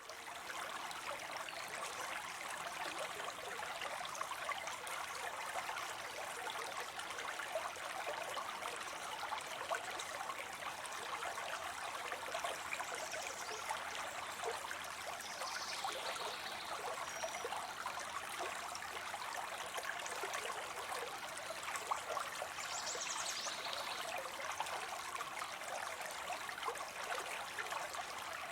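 Water spilling steadily into a pond: a continuous, even splashing trickle.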